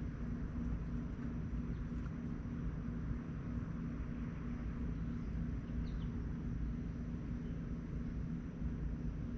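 Steady low mechanical rumble with an evenly pulsing hum and a thin steady high tone, with a faint bird chirp about six seconds in.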